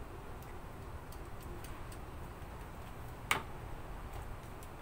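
Scattered light metallic clicks of a worm-drive hose clamp being tightened with a screwdriver on a cyclone separator's hose inlet, with one louder, sharper click about three seconds in.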